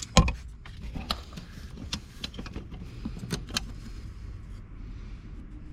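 Handling noises as tools and gear are moved: a sharp knock just after the start, then scattered clicks and clunks over a steady low rumble.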